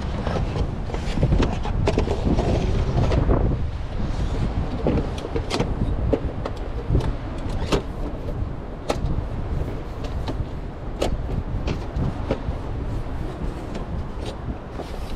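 Strong wind gusting and rumbling, heavier for the first few seconds, with many scattered sharp clicks and knocks.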